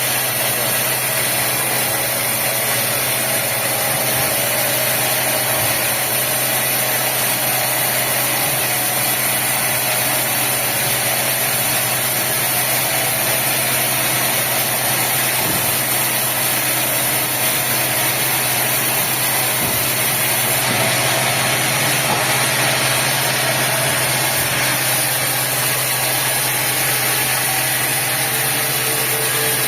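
Sawmill machinery running steadily: a constant engine-like drone with a high hiss over it, unchanging throughout.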